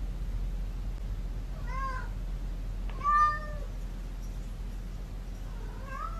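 Domestic cat meowing three times, the middle meow the longest and loudest and the last one rising in pitch, which its owner takes as asking to be fed.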